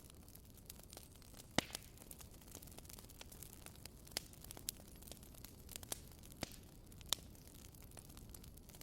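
Burning firewood crackling: sharp pops and snaps at irregular intervals, the loudest about one and a half seconds in and near the end, over a faint steady hiss.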